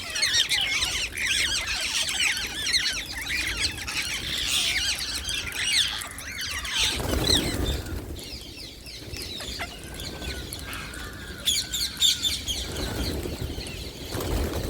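A flock of wild parrots chattering with many quick, rising and falling shrill calls, dense at first, then thinning after about halfway, with a short burst of calls again near the end. A brief whooshing noise comes about halfway through.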